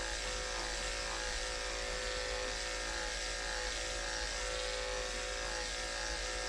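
Andis electric pet clippers running with a steady hum as they shave matted fur from a cat's armpit area.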